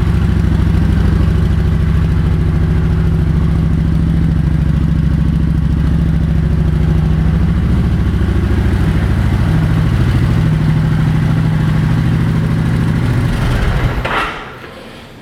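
Kawasaki Vulcan 900 V-twin motorcycle engine idling steadily, then shut off near the end, the sound cutting away within about a second.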